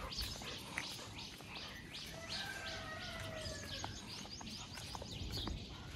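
A bird chirping over and over in short calls, about three a second. About two seconds in, a separate held tone sounds for a second and a half.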